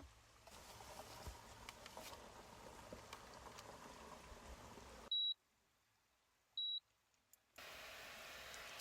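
Two short, high electronic beeps about a second and a half apart, set in a sudden stretch of near silence. Before and after it there is faint background noise with light clicks and taps.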